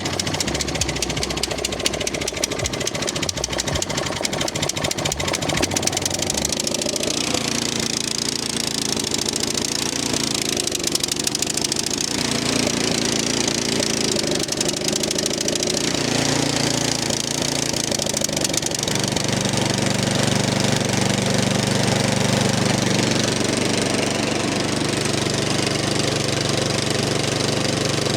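MTD snow blower's Powermore 208cc single-cylinder four-stroke engine running just after a cold start on full choke. Its speed wavers at first, then settles to a steady speed about two-thirds of the way through.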